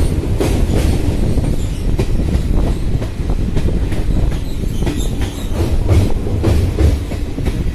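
Passenger train running along the track, heard from on board: a steady low rumble of the coaches with irregular clacks of the wheels over rail joints.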